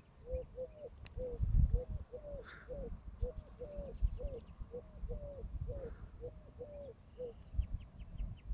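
A bird calling: a quick run of short, low hooting notes, two or three a second, going on for about seven seconds. Low rumbling on the microphone underneath, loudest about a second and a half in, with a few faint high ticks near the end.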